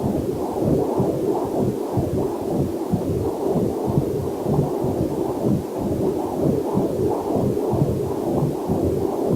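Heartbeat picked up by a fetal Doppler heart monitor: a rapid, steady train of whooshing pulses. A faint waterfall runs underneath.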